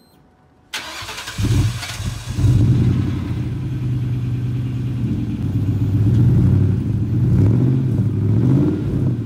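A car's V8 engine is cranked and starts about a second in, revs up briefly, then settles to a steady idle with a few light throttle blips near the end.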